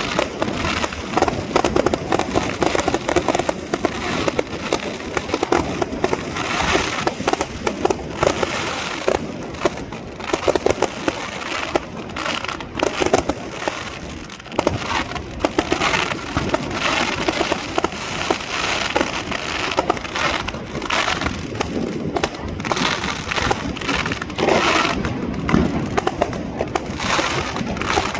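Fireworks display: a dense, continuous barrage of bangs and crackling explosions.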